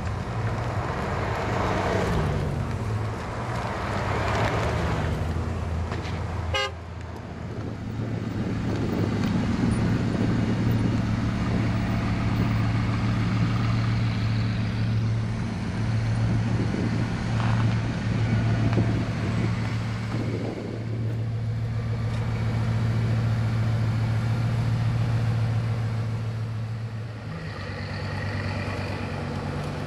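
Bugatti Veyrons' W16 engines running at low revs as the cars drive slowly past, a steady low hum. Near the end another Veyron's engine note rises a little.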